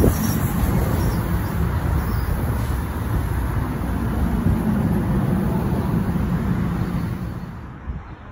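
NJ Transit multilevel commuter train rolling out along the platform, its wheels rumbling steadily on the rails, then fading quickly about seven seconds in as the last car clears.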